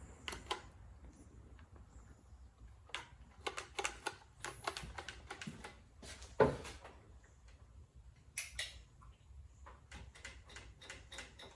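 Chainsaw being handled with its engine off: scattered light clicks and small knocks of its controls and parts, with one firmer knock about six and a half seconds in.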